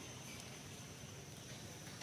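Quiet outdoor ambience: a steady high-pitched insect drone over a low, even hiss.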